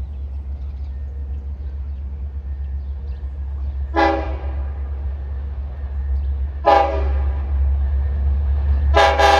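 Long Island Rail Road train horn sounding short blasts: one about four seconds in, another a little under three seconds later, then two quick ones in a row near the end, over a steady low rumble.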